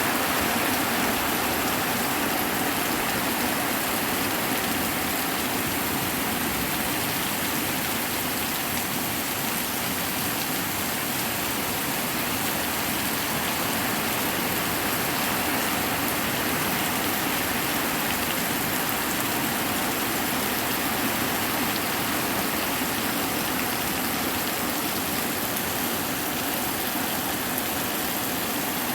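Hard rain pouring down in a steady, unbroken hiss.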